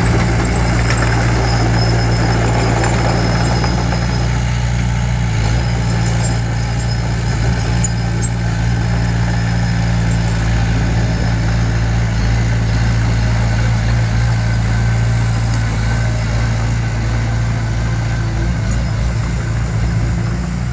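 Heavy-equipment diesel engine running steadily at low, even speed.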